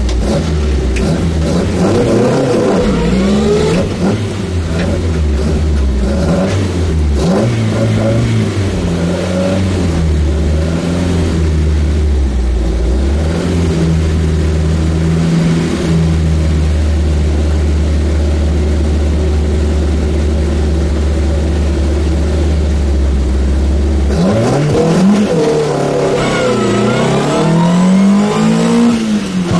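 Opel competition car's engine heard from inside the cabin, running with a deep drone and varying revs at low speed. About 24 seconds in it accelerates hard, its pitch climbing and dropping repeatedly through the gear changes.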